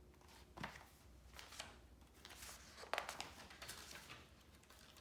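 Faint rustling of a picture book's paper pages being turned, with a few short crinkles and taps, the strongest about three seconds in.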